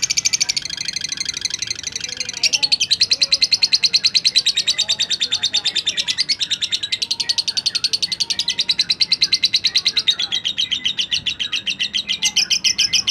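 An omyokan bird singing a long, rapid trill of high notes, about ten a second, starting suddenly and shifting pitch a few times.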